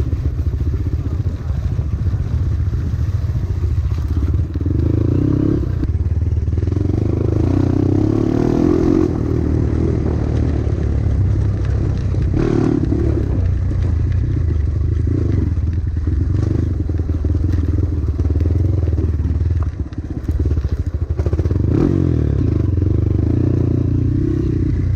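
Dirt-bike engine running at low, fairly steady revs while being ridden down a trail descent, with a few knocks and clatters from the bike over rough ground.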